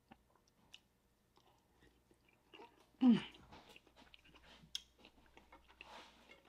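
Close-up mouth sounds of a person eating a soft steamed dumpling: quiet wet chewing and small lip-smack clicks, with a short falling "mm" hum of enjoyment about three seconds in as the loudest sound.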